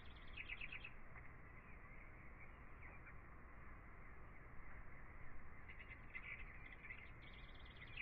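Birds chirping faintly, in spells of quick repeated chirps: one in the first second and another in the last two seconds, over a low steady hum.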